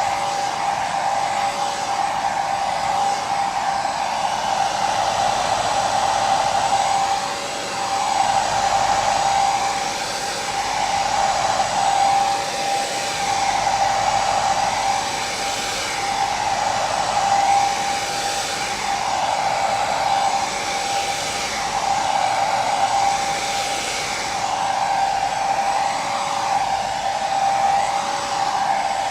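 Hair dryer running continuously: a steady rushing of blown air with a constant motor whine, which swells and eases slowly every couple of seconds.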